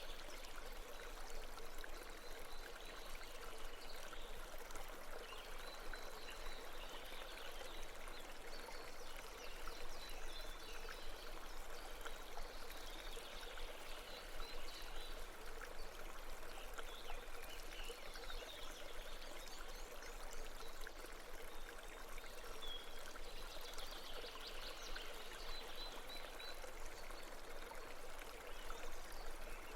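A babbling brook running steadily, with faint high chirps coming and going over the water.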